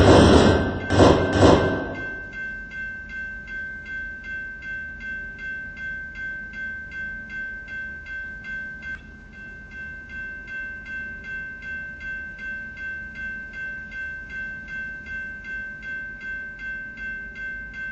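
Freight cars rumbling and clattering past loudly, cutting off about two seconds in. Then a railroad crossing warning bell keeps ringing on its own, at about two and a half strikes a second.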